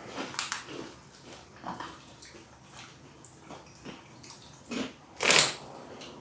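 People chewing crunchy hot-chili-and-lime snack sticks: scattered soft crunches, with one louder, short rustling noise about five seconds in.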